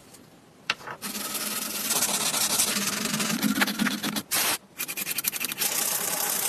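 Abrasive rubbing on the metal of a vintage kerosene stove. It starts about a second in, stops briefly past the middle, then goes on in quick, even strokes.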